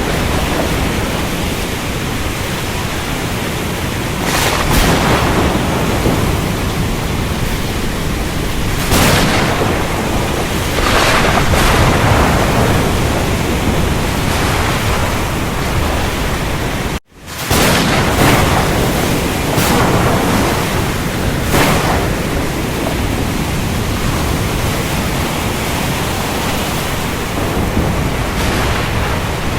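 Thunderstorm: rain falling steadily, with several brief swells of thunder rolling through. The sound cuts out for a split second a little past halfway.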